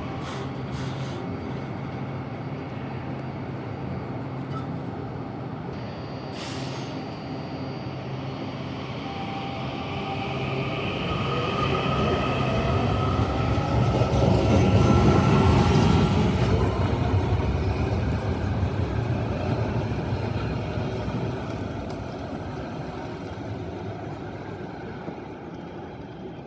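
Washington Metrorail Red Line train going by, its rumble building to a peak about halfway through and then fading away, with a high whine at its loudest.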